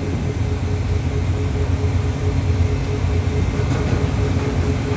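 Steady low drone of a car ferry's machinery, with a steady mid-pitched hum on top from a running pump aboard, which could be the seawater or the freshwater pump.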